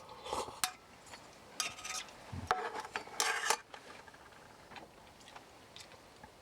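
Metal cookware and utensils being handled: a few short clinks and scrapes with brief metallic ringing in the first half, the loudest near the middle, then a few faint ticks.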